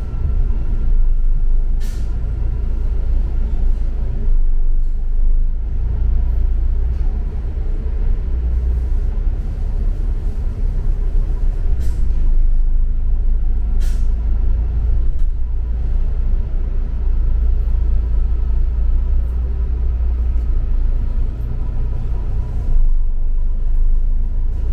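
Double-decker city bus running, heard from aboard: a steady low engine and road rumble, with a few sharp clicks or knocks about two seconds in and twice more around twelve and fourteen seconds in.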